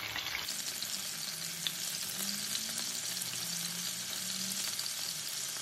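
Skewered chicken kebab pieces sizzling steadily in shallow hot oil in a nonstick frying pan as they are turned over.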